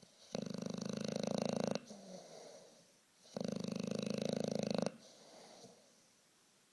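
English bulldog snoring in its sleep: two long snores of about a second and a half each, with softer breathing after each one.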